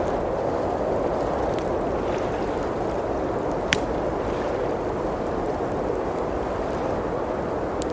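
Steady blizzard wind outside, with a wood fire crackling softly and one sharp pop from the fire about halfway through.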